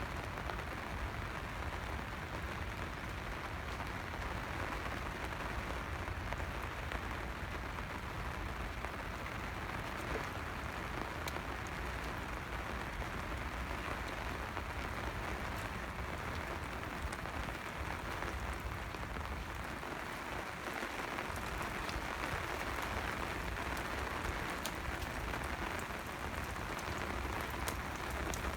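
Steady rain falling, a continuous hiss with scattered sharp drop ticks through it.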